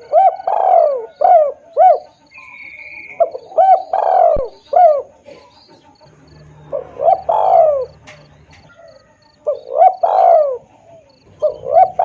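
Spotted dove (tekukur) cooing in repeated phrases of a few short coos, each ending in a longer drawn-out coo, about every two to three seconds, as played for a dove lure call. A faint, evenly pulsed high chirping runs behind it.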